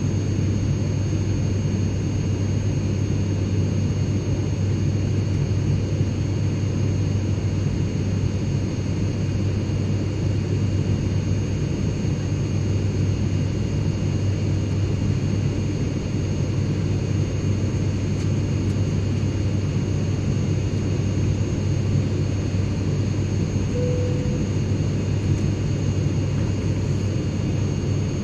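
Airplane cabin ambience: a steady low drone of engines and rushing air that does not change. Several faint, steady high-pitched whines sit above it.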